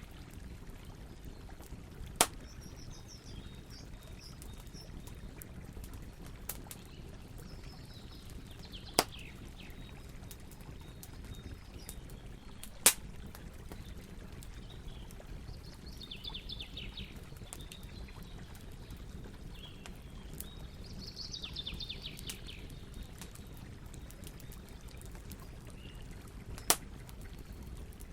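Campfire burning with a steady low rumble and four loud, sharp pops from the wood, while small birds call in short, quick trills several times in the background.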